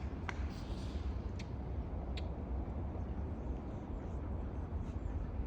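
Outdoor background: a steady low rumble, with a few short, high chirps or ticks in the first couple of seconds.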